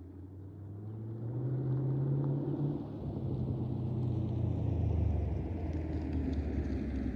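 2021 Chevrolet Camaro SS 6.2-litre V8 through an AWE Track Edition axle-back exhaust, driving past under acceleration with a deep exhaust rumble. It grows louder over the first couple of seconds, dips briefly about three seconds in, then swells again.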